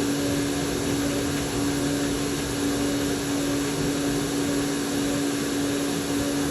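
Vent-cleaning vacuum running steadily: a constant motor hum over an even rush of air.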